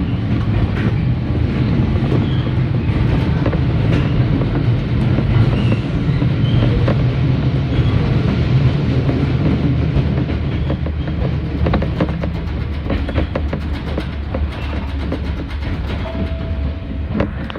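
Hokuriku Railroad Ishikawa Line electric train running along the track, heard from inside the car. There is a steady low rumble of wheels on rail, with irregular clacks from the rail joints.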